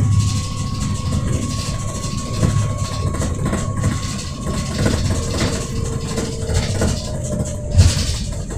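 Volvo B7RLE bus running, a steady low engine rumble with a faint steady whine above it, and one sharp thump near the end.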